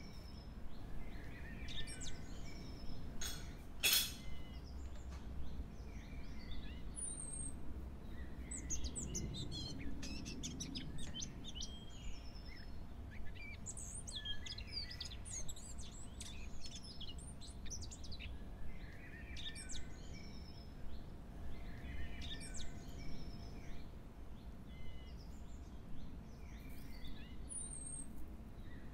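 Small birds chirping and singing in short, quick phrases that recur every second or two. Two sharp clicks come about three and four seconds in.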